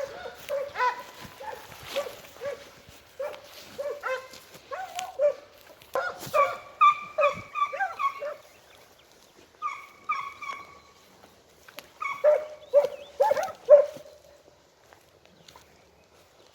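A pack of segugi (Italian scent hounds) giving tongue on a hare's trail: several dogs baying in short repeated calls that overlap at different pitches, one voice higher than the rest. The baying stops near the end.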